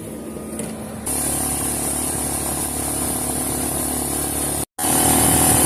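Suzuki Eiger 400 ATV engine running steadily, coming in about a second in. Near the end it cuts out completely for a moment, then resumes a little louder.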